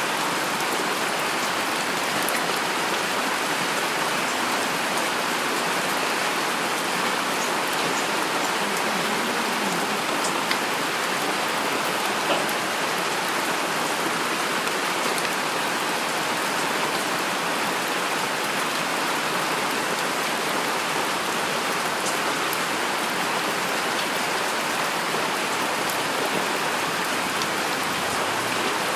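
Heavy rain falling steadily, an even hiss with scattered individual drop ticks.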